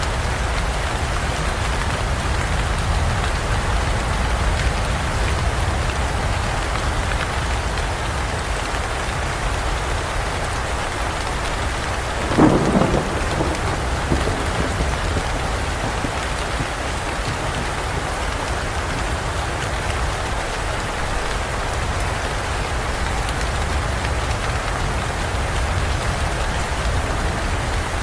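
Steady rain falling in dense forest, an even hiss throughout. About halfway through comes a short, sharp crack of thunder, the loudest moment, with a smaller rumble a second or so after.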